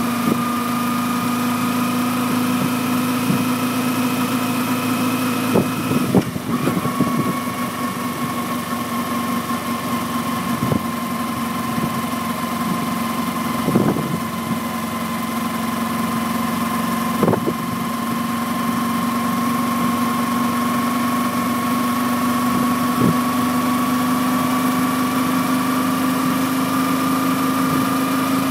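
Kawasaki Ninja 250R's parallel-twin engine running at a nearly steady speed while the bike is ridden, with an even rushing hiss underneath. The engine note drops briefly about six seconds in and then slowly rises back. A few short knocks come through along the way.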